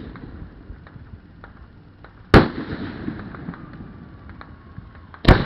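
Fireworks bursting: two loud booms about three seconds apart, each trailing off in a rumble, with scattered smaller pops and crackles between them.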